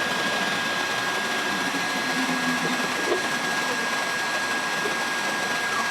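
Handheld electric heat gun blowing steadily, its fan motor giving a thin constant high whine over a rush of air, warming the fender's paint so the metal can be worked without the paint cracking.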